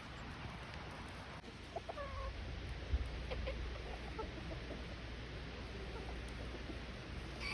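Backyard chickens clucking quietly, a few short calls scattered through, over a low rumble with one brief bump about three seconds in.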